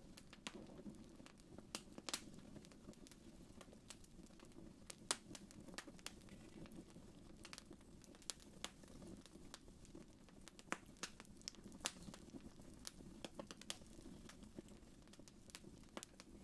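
Fireplace fire crackling faintly: irregular sharp pops and snaps over a low steady rumble, the loudest pops about two and five seconds in.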